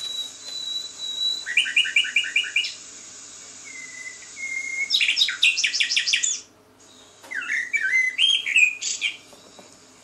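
Songbirds singing in separate phrases: a held high whistle, then a run of about six quick paired notes, a rapid trill, and a warbling phrase near the end. A steady high hiss lies behind them and cuts off suddenly partway through.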